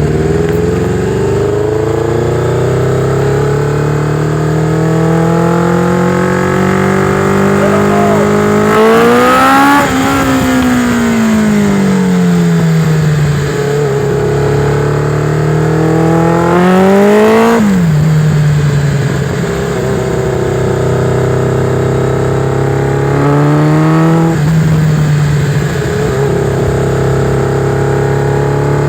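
Warm motorcycle engine under small throttle while being checked for a misfire. Its revs climb slowly for several seconds and fall back twice, the second time dropping suddenly, then hold fairly steady with small rises.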